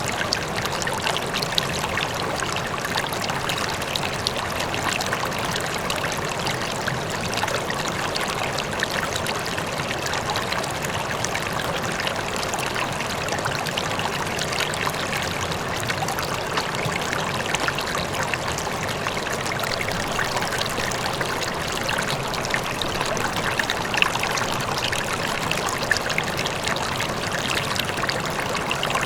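River water flowing steadily over rocks, a constant rushing and splashing, with a waterfall faint in the background.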